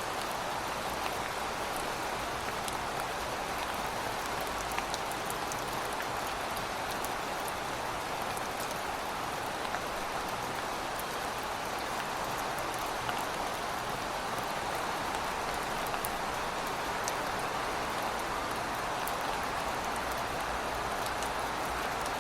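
Heavy rain falling steadily: a dense, even hiss with scattered sharp clicks of individual drops.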